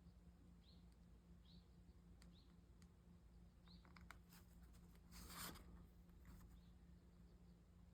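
Near silence: a low steady hum with faint short chirps every second or so and one brief scrape about five seconds in.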